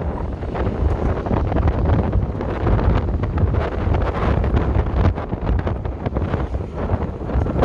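Strong wind buffeting the microphone of a rider on a moving electric motorcycle, a loud, fluctuating rumble with no engine note.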